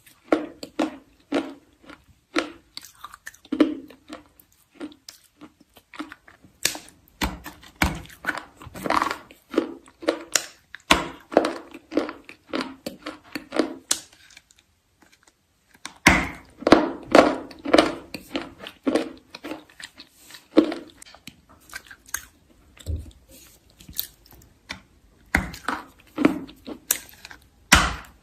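Close-miked crunching of chalk being bitten and chewed, with sharp crunches coming several a second and a pause of about two seconds midway.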